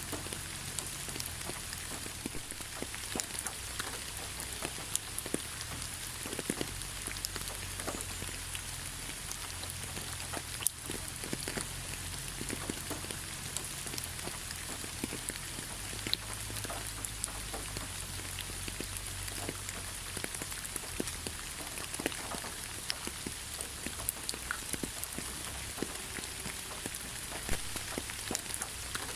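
Steady rain falling in a forest, a continuous hiss dotted with many separate drops tapping close by.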